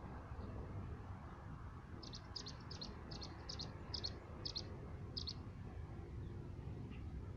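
A bird calling a run of about eight short, high notes, evenly spaced at roughly two to three a second, over a steady low rumble.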